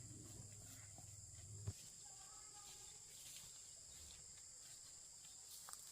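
Faint, steady, high-pitched drone of insects, crickets or cicadas, with a single sharp click under two seconds in.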